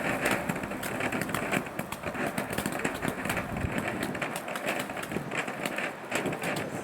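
Garden firework fountain burning: a steady rushing hiss thick with fine crackles as it sprays sparks.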